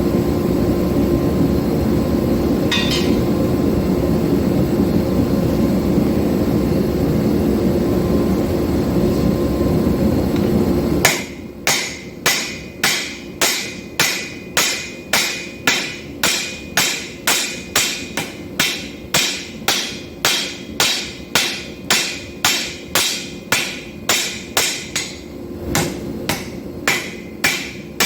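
Hammer blows on hot 5160 steel on an anvil, forging the bolster of an integral knife. They come at an even pace of about two ringing strikes a second, beginning about eleven seconds in. Before them there is a steady, loud roar that cuts off abruptly.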